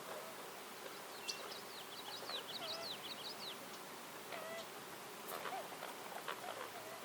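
Wild birds singing in woodland: a quick run of high, rapid chirps from about one to three and a half seconds, with lower, scattered calls through the rest. Underneath is a steady background hiss.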